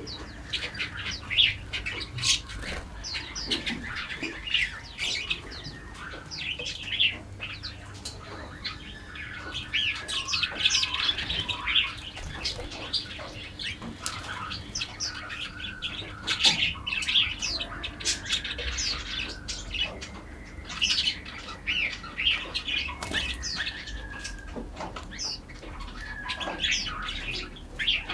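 Many forest birds chirping and calling at once, dense overlapping quick high chirps, with a few longer whistled notes in the second half.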